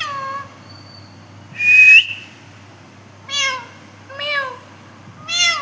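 Pet parrot calling: a loud, sharp rising whistle about two seconds in, then three short calls that rise and fall in pitch, about one a second.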